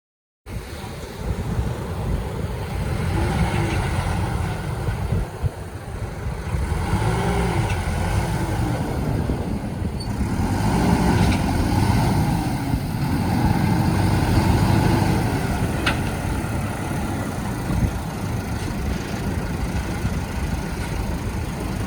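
Boat's outboard motors running hard and revving, their pitch rising and falling as they are throttled up and back. The sound starts abruptly about half a second in.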